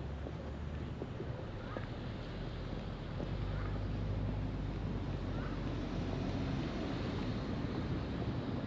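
Steady low engine hum from a motor running at a distance, strengthening a little about three seconds in, over wind noise. Three faint bird chirps come through, one about every two seconds.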